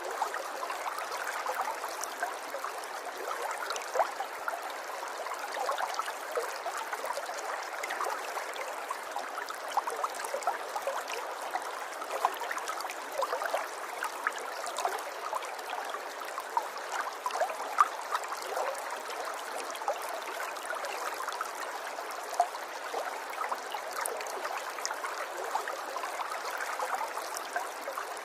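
River water flowing steadily: an even rush with many small splashes and ticks in it, light and without any deep rumble.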